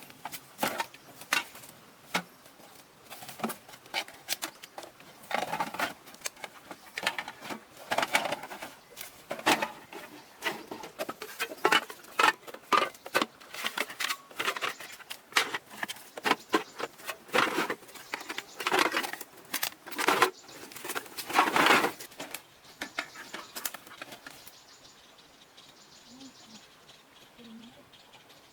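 Dense, irregular clicks, taps and rustles, like objects being handled, thinning out about three-quarters of the way through.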